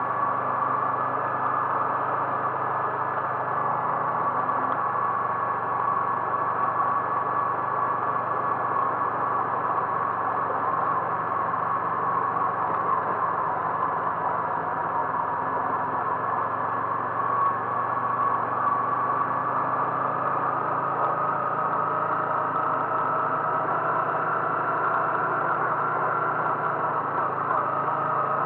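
A car engine running steadily under road noise while driving, its drone rising slightly in pitch toward the end.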